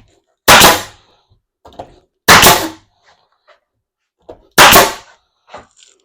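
Nail gun firing three times, about two seconds apart, each a sharp crack with a short fading tail, with faint knocks in between. The gun is not driving any nails.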